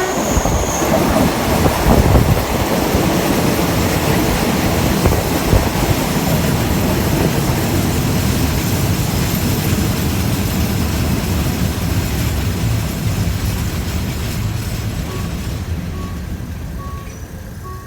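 Diesel passenger train running along the track, a loud steady rumble that fades over the last few seconds. Near the end, short beeps repeat about once a second.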